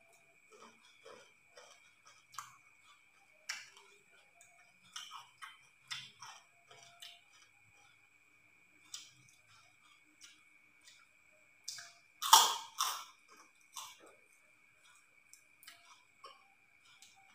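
Close-up mouth sounds of someone eating fried eel with his fingers: chewing and lip smacking in short irregular clicks, with a louder run of several smacks about twelve seconds in. A faint steady high tone runs underneath.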